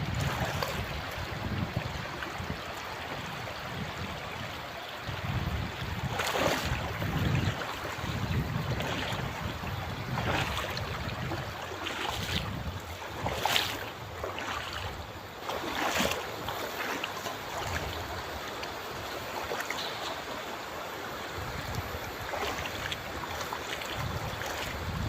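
Clear shallow river flowing steadily, with gusts of wind rumbling on the microphone and a handful of brief water splashes.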